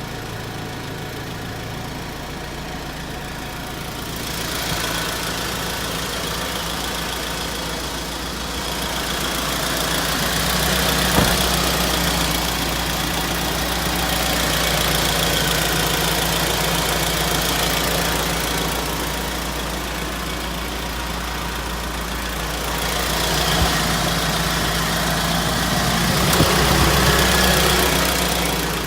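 Isuzu Elf truck engine running at idle and being revved up and let back down a few times, the louder stretches about a third of the way in and near the end.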